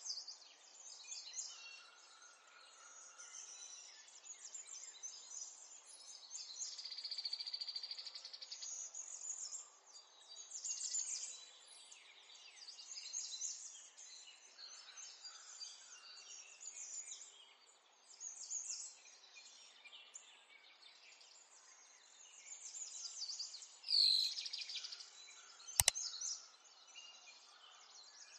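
Birds chirping and singing, with calls coming and going throughout and one louder falling call near the end. A single sharp click follows shortly after.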